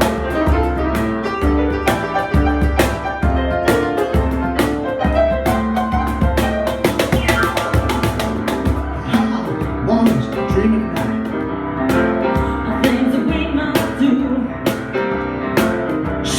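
Live band music, an instrumental passage with piano over a steady beat of about two strikes a second.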